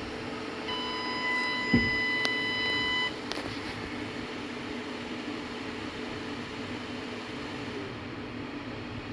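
SAKO 6200 inverter's buzzer sounding one long beep of about two and a half seconds as it powers up, with a thump and a sharp click during the beep. A steady electrical hum runs underneath.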